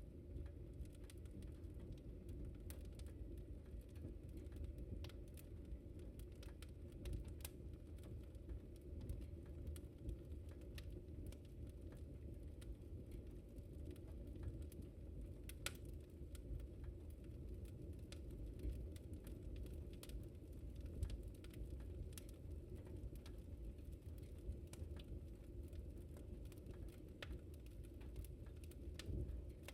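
Wood fire in a fireplace crackling: irregular sharp pops and snaps over a low steady rumble of the flames, with one louder pop about two-thirds of the way through.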